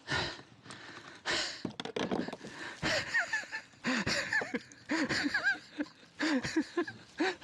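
A man breathing hard after a fish fight, with gasping breaths and, in the second half, short pitched exhalations or grunts.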